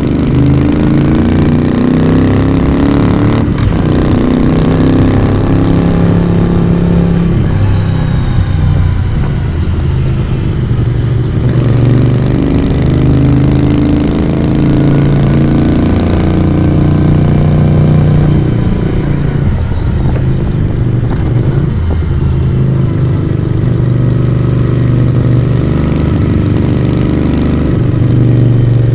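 Moto Guzzi V35's air-cooled transverse V-twin running under way, its exhaust note rising and falling several times as the rider rolls the throttle on and off through the bends.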